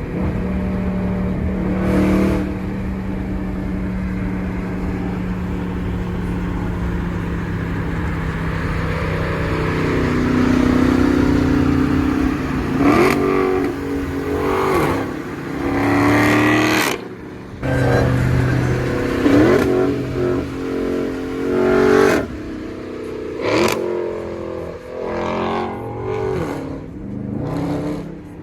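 Dodge Charger Hellcat Redeye's supercharged 6.2-litre HEMI V8 with its mid mufflers deleted, cruising steadily and then accelerating hard. From about a third of the way in the revs climb repeatedly, cut by a string of quick breaks at the gear changes.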